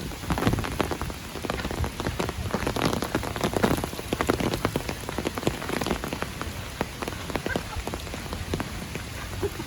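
Light rain falling, heard as many close, irregular drop hits, thickest in the first few seconds and thinning out after.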